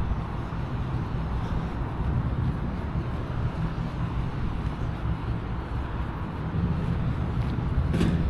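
Outdoor ambience: a steady low rumble of road traffic mixed with wind on the microphone, with no distinct events.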